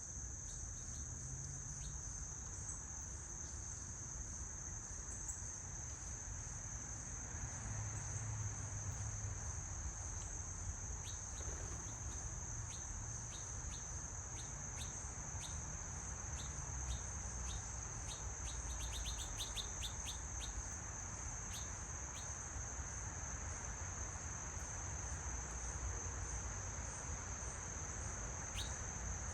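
Insects shrilling in one steady high-pitched drone, with short bird chirps scattered over it and a quick run of chirps about two-thirds of the way through.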